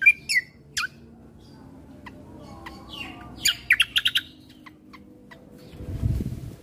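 Kecial kombo (cucak kombo) songbird calling: a few sharp chirps in the first second, then a quick burst of rapid notes about three and a half seconds in, with scattered single ticks. A low rumble comes in near the end.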